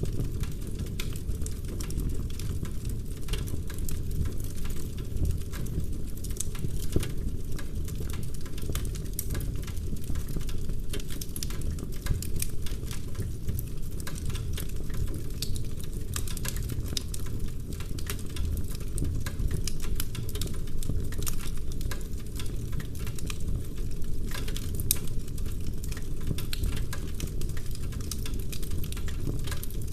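Wood fire in a fireplace crackling, with many small, irregular snaps and pops over a steady low rumble of burning logs.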